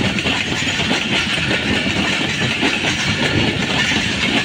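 Passenger coaches of a Pakistan Railways express train rolling past, a loud, steady noise of wheels running on the track.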